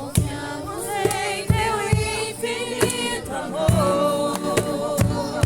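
A group of voices singing a Christian worship song together, with a clear beat running under the singing.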